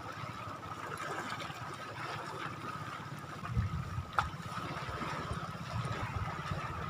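Shallow seawater trickling and lapping at the shoreline, a steady wash with a faint steady high tone over it and a single sharp click about four seconds in.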